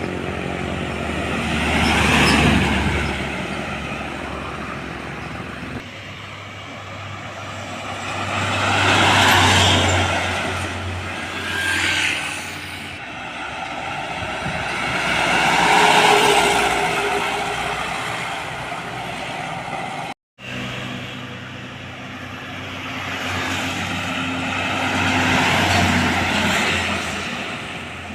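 Heavy trucks passing by one after another, each one's diesel engine and tyre noise swelling up and fading away. The sound drops out for a moment about two-thirds of the way through.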